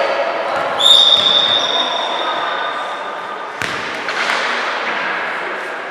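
Basketball game sounds in a gym: a high-pitched squeal sets in about a second in and fades over about two seconds, over a background of voices. A sharp thud of the ball hitting the floor comes a little past halfway.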